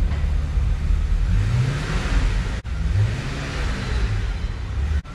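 BMW 850CSi's 5.6-litre V12 running at low speed as the car is driven out of a steel shipping container, the revs rising briefly twice.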